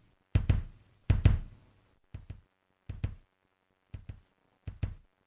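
Computer-generated percussion closing out a song: six pairs of short knocks, one pair about every 0.8 s, growing fainter until they stop near the end.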